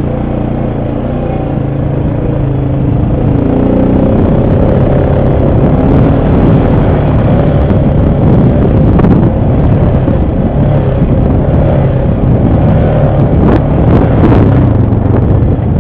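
ATV engine running under load, getting louder a few seconds in, with a few sharp knocks near the end.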